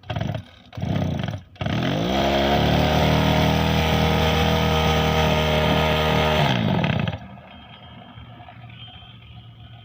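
Two-stroke brush cutter engine being started: two short bursts as it fires and dies, then it catches about a second and a half in and revs up to a high steady speed. About seven seconds in the pitch falls away and the sound drops sharply.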